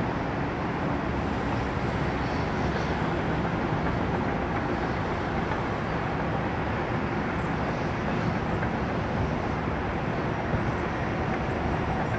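Steady jet-engine roar of aircraft at a busy airport, an even rumbling noise that neither builds nor fades.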